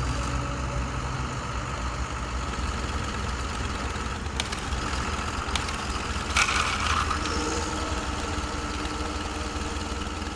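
A steady, even engine-like running sound, with a short hiss about six seconds in.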